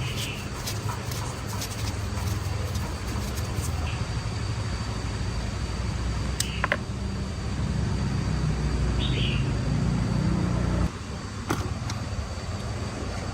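Motorbike engine running steadily, picking up slightly, then shut off abruptly about eleven seconds in, with a few light clicks over it.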